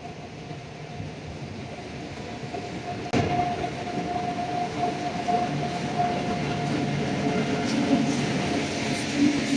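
A train running along the track close by, its noise building, with a sudden rise about three seconds in and a steady whine from then on.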